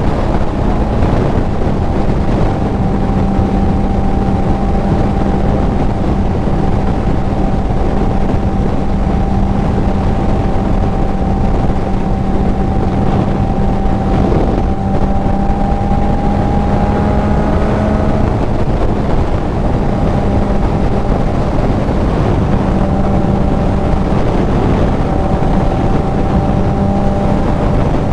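Kawasaki Z900 inline-four with a CS Racing full exhaust running at a steady cruising note, over wind rush on the microphone. The engine note rises slightly and then dips about two-thirds of the way through.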